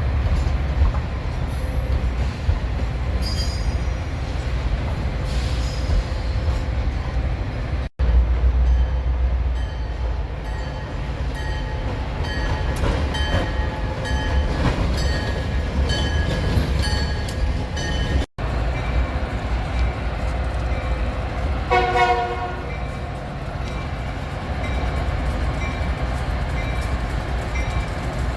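Train running with a steady low rumble, cut off abruptly twice. About three-quarters of the way through, a train horn gives a short blast.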